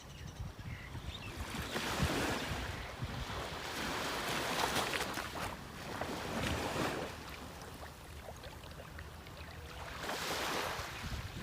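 Sea waves washing ashore, the surf swelling and fading about three times, with wind rumbling on the microphone.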